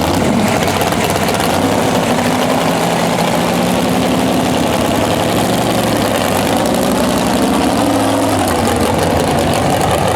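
Pulling tractor's engine running at a loud, steady idle, its pitch wavering slightly. The engine is one that is hard to keep running.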